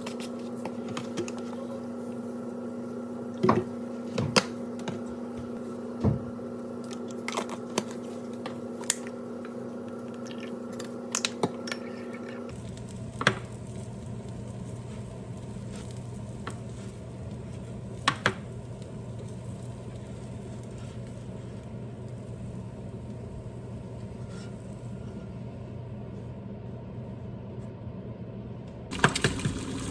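Kitchen work: scattered clicks and knocks of dishes and utensils over a steady background hum that changes character twice at clip cuts.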